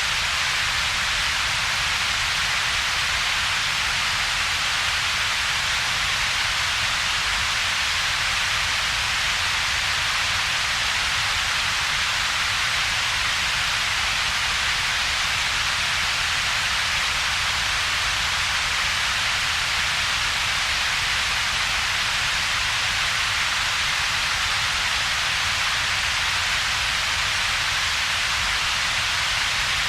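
Synthetic double-peaked noise, a steady, unchanging hiss. The power is concentrated in two bands: a strong one in the upper mid range and a weaker low rumble, with a hollow between them.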